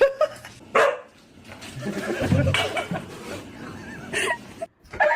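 A dog barking, a few short separate barks about a second apart.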